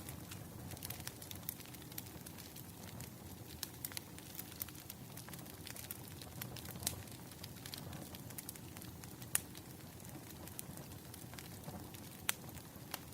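Wood fire crackling, a steady low rumble with frequent small snaps and a couple of louder pops near the end.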